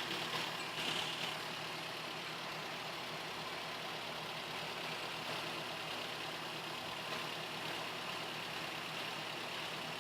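Suzuki G16A 1.6-litre four-cylinder engine idling steadily.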